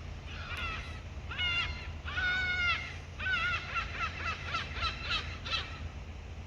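A large bird calling: a few harsh honking calls, a longer drawn-out call about two seconds in, then a quick run of short calls, over a steady low hum.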